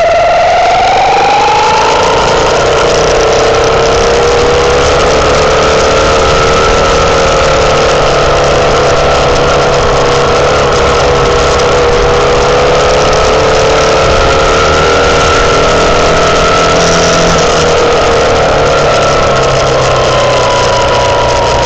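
Herald Classic motorcycle engine running on the move, its whining note rising as it picks up speed in the first couple of seconds, holding steady, then falling near the end as the bike slows.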